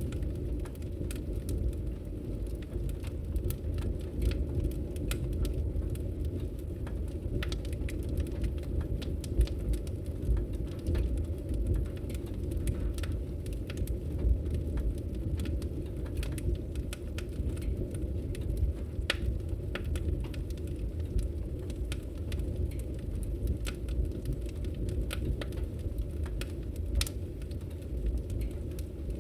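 Wood logs burning in a fireplace, crackling and popping in irregular sharp snaps over a steady low rumble, with a few louder pops.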